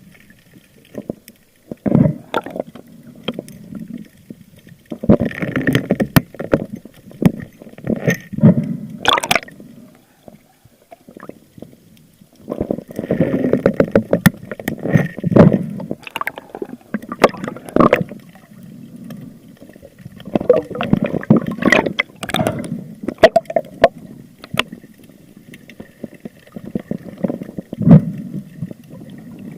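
Sea water sloshing and gurgling around the camera in bursts every few seconds, with sharp clicks and knocks among them, as a spearfisher moves through the water.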